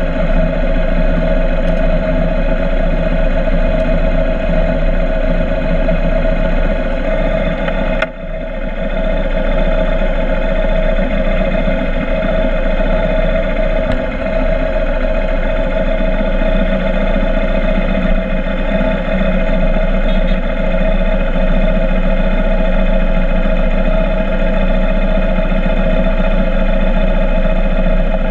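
Motorcycle engine running at a steady speed, with one brief dip about eight seconds in.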